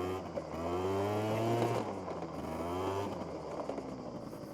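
SYM Jet2 50 scooter's two-stroke engine revving up and easing off twice, then dropping back toward idle.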